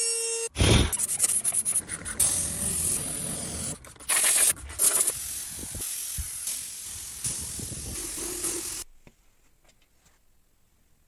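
Hissing, rubbing workshop noise from restoration work, with uneven swells and a few brief breaks. It cuts off suddenly to near silence about nine seconds in.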